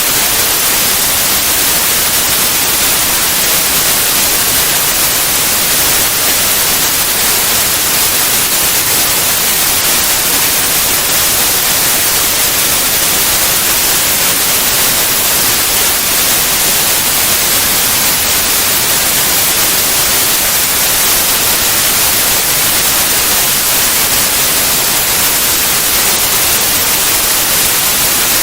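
Steady white noise: a constant, even hiss with no changes or events.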